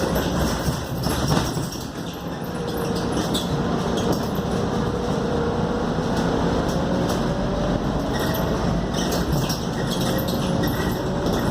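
Scania K280UD double-decker bus under way, heard from inside the cabin: steady engine and road noise with rattles from the body, and a faint whine that rises slowly in pitch through the middle.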